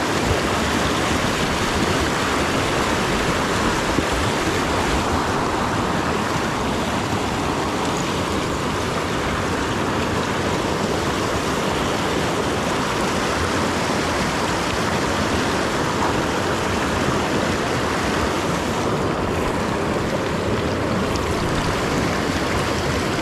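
Fast-flowing mountain creek water rushing steadily.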